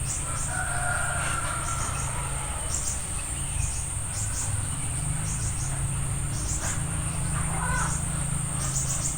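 Insects, crickets or cicadas, keep up a steady high-pitched drone, with short chirps repeating every second or so. A few faint bird calls come through, and there is a low steady hum underneath.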